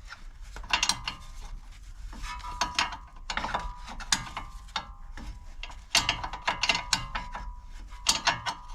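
Spanner working the seized upper nut of a front anti-roll bar link in short strokes, with groups of metallic clicks and clinks that ring briefly, coming every second or so. The nut is being backed off slowly, with a hex key in the stud to stop it spinning.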